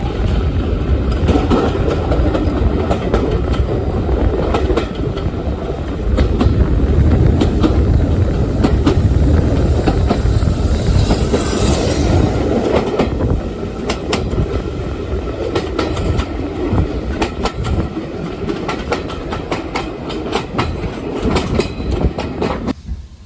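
A steam-hauled train running on the heritage line, with a loud rumble and its wheels clicking over the rail joints, the clicks coming thick and fast in the second half.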